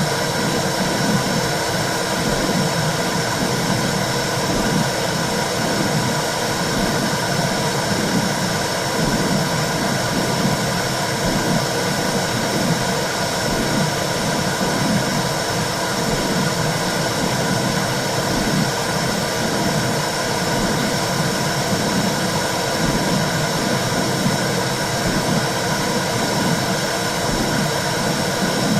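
Womb sound for calming a baby: a steady whooshing noise with a low, rhythmic pulsing beneath it, like blood flow heard from inside the uterus.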